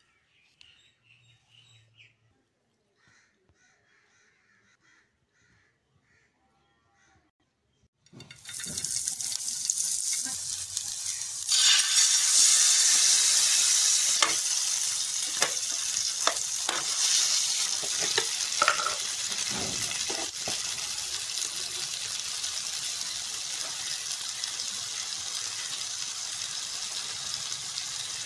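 Boiled potatoes frying in hot oil in a pan: a loud sizzle starts suddenly about eight seconds in, swells a few seconds later, then settles to a steady sizzle, with a few sharp knocks in the middle.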